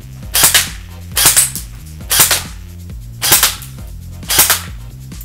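EMG Hellbreaker M4-style airsoft electric gun (AEG) firing at a target: five short volleys of shots about a second apart, each sharp and snappy. Background music with a steady beat plays underneath.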